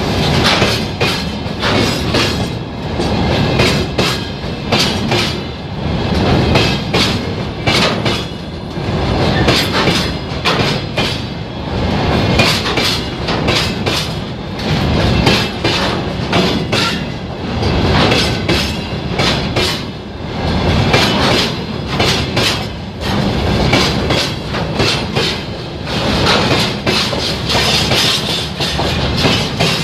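Freight train rolling past, its wagon wheels clattering steadily over the rail joints in a long run of quick clacks over a continuous rumble.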